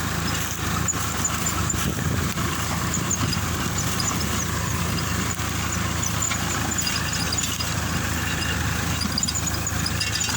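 Swaraj 963 tractor's diesel engine running steadily, with scattered faint high squeaks over it.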